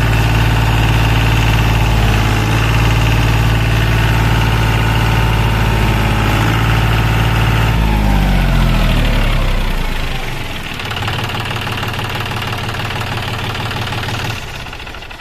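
John Deere 5039D tractor's diesel engine running steadily. About eight seconds in, its pitch falls as it slows, and it runs on lower and quieter before dying away near the end.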